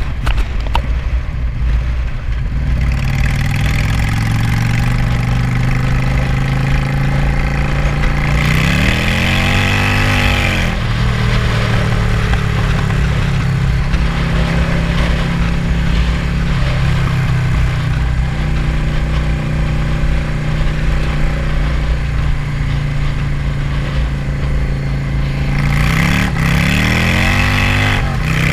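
Car engine running steadily, revving up and dropping back twice, each rise about two seconds long with a rush of intake hiss, after its vacuum leak has been fixed.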